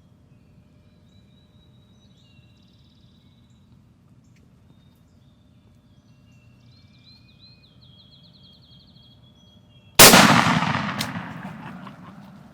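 Faint small-bird chirps and trills, then about ten seconds in a single loud shotgun blast that dies away in a long echo: a shot taken at a wild turkey.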